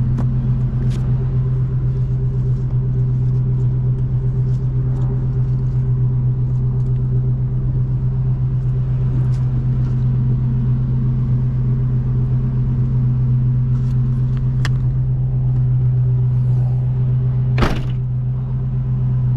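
Car engine idling with a steady, even low hum. One sharp knock sounds near the end.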